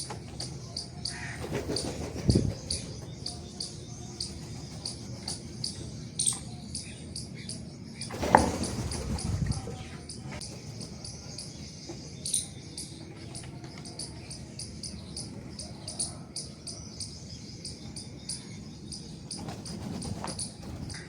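Sparrows chirping in many short, high chirps, with two louder, lower sounds about two and eight seconds in.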